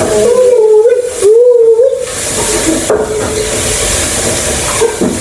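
Chicken frying in hot oil in a pan, a steady sizzling hiss, with a wavering tone above it that slides up and down in the first two seconds and then holds nearly level.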